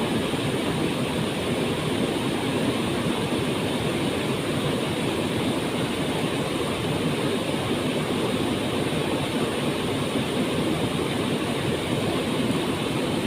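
Waterfall: falling water rushing in a steady, unchanging roar.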